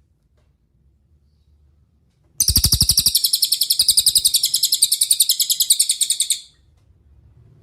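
A cililin songbird sings one fast, rapid-fire trill of high, evenly repeated notes for about four seconds, starting about two seconds in and cutting off sharply.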